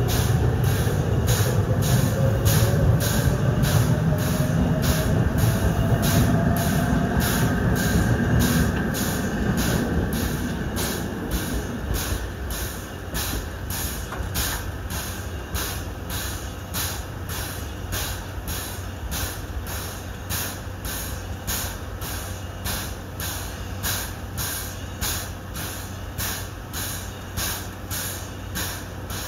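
A train pulling away: a heavy rumble with a slowly rising whine that fades over the first ten seconds or so. It leaves a quieter steady background, with a regular high-pitched pulsing throughout.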